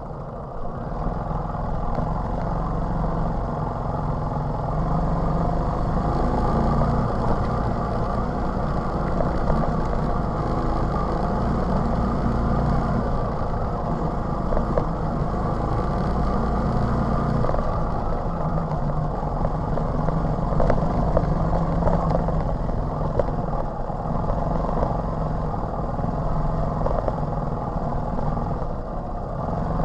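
TVS XL 100 moped's single-cylinder four-stroke engine running on the move, its note shifting a little up and down with the throttle.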